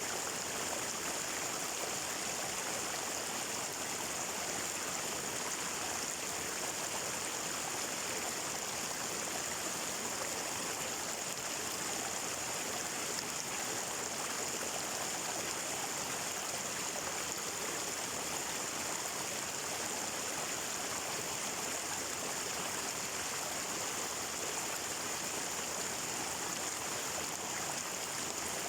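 Water flowing steadily, an even, unbroken rushing with no pauses or changes.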